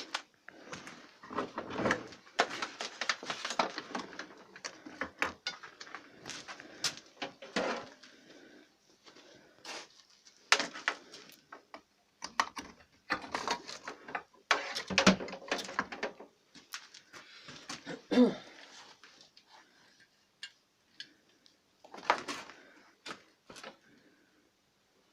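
Irregular clicks, knocks and clatter of equipment being handled as the welding machine's cables and plugs are hooked up, with short quiet gaps between bursts of handling. The welder is not yet switched on and no welding is heard.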